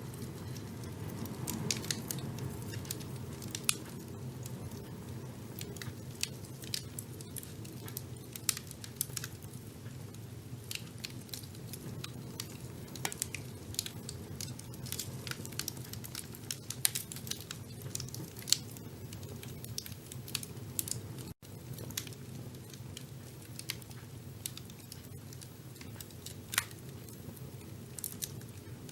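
Wood fire burning in a fireplace: a steady low rumble of flames with frequent, irregular crackles and pops, and a split-second gap about two-thirds of the way through.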